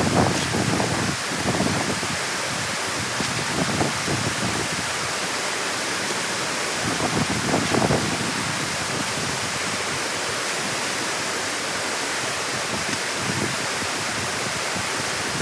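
Water rushing steadily through a dam opening, with a few louder sloshing surges near the start and again about seven to eight seconds in.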